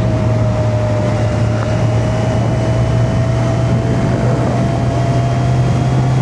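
Kawasaki Z900's inline-four engine running steadily on the move, with wind rushing over the microphone.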